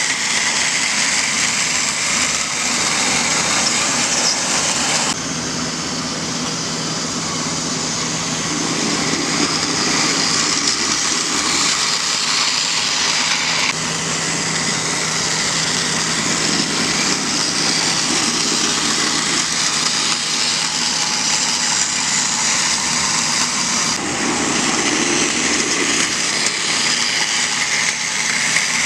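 Battery-powered toy train motor whirring steadily as the train runs along plastic track. The sound changes abruptly a few times, as between separate running shots.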